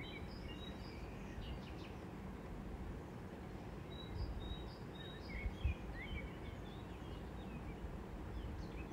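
Small birds chirping in short, quick calls over a steady low background hum. A few soft low thumps come about four to six seconds in.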